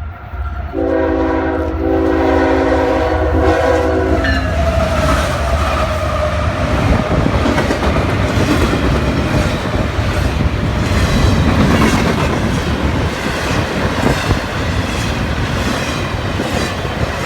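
A locomotive's air horn sounds a chord for about three and a half seconds, with a brief break near the middle. A train then passes close by, rumbling, with a steady rhythmic clicking of wheels over the rail joints.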